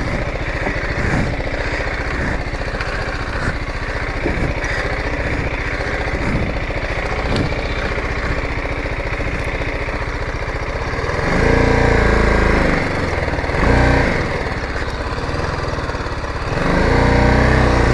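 Motorcycle engine running at low speed, with the revs rising and falling about eleven seconds in and again near the end.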